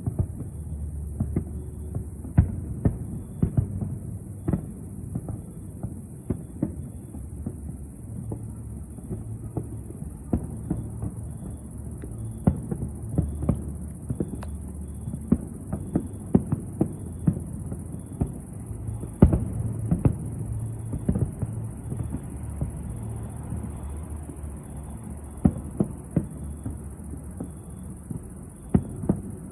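Distant aerial fireworks display: many sharp bangs of shells bursting at irregular intervals, some in quick clusters, over a continuous low rumble of booms.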